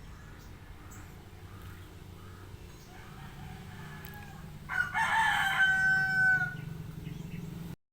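Rooster crowing once, a loud call of about two seconds starting near the middle and trailing off at the end, over a steady low rumble. The sound cuts off suddenly near the end.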